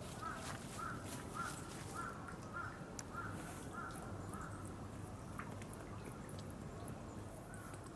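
Laughing kookaburra calling: a run of short, evenly spaced notes, about two a second, that fades out about halfway through.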